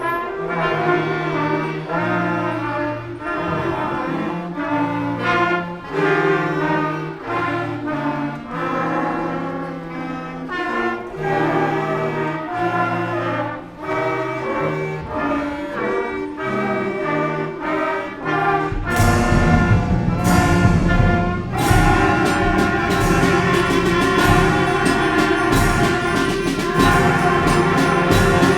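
Symphonic concert band playing, brass to the fore over a rhythmic low line. About nineteen seconds in, the full band comes in louder with heavy percussion hits.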